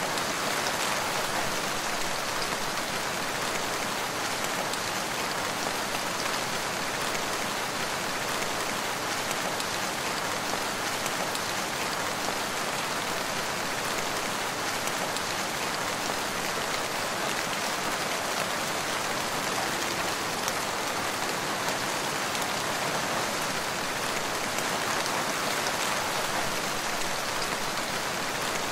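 Steady rain falling in a forest, a continuous even hiss with no let-up.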